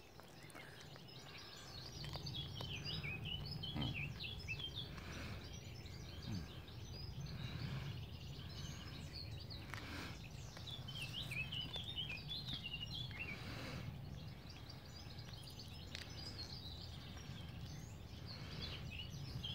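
Small birds chirping in short clusters of quick, high notes, over a low steady outdoor rumble.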